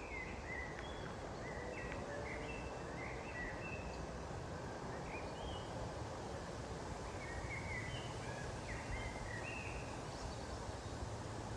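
Steady outdoor wind-like rumble with short, high bird chirps scattered throughout, and a faint tap or two near the start.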